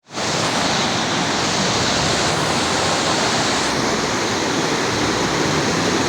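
Steady, loud rush of fast-flowing water, like a mountain river or waterfall.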